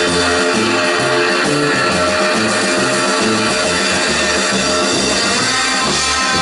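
Live rock and roll band playing an instrumental passage: electric guitar over a walking bass line and drums.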